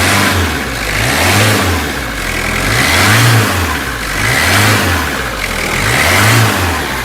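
Vehicle engine revving up and down in repeated swells, about every second and a half.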